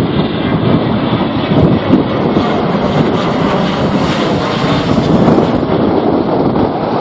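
An airliner's engines running loud and steady as it passes, mixed with strong wind buffeting the microphone; the sound grows brighter and hissier for a few seconds in the middle.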